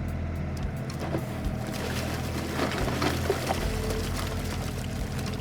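Diesel engine of a compact tractor running steadily, with a short rush of gritty noise about midway through.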